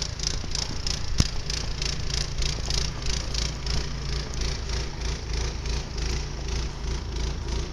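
Footsteps crunching through deep snow in a regular rhythm, with wind buffeting the microphone in a steady low rumble. One sharp click about a second in.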